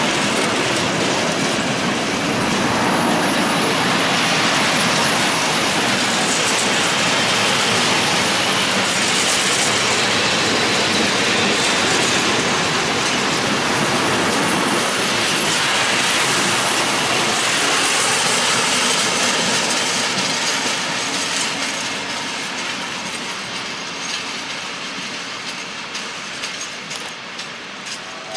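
A train passing at speed, with steady wheel-on-rail noise and some clickety-clack, fading away over the last several seconds as it recedes.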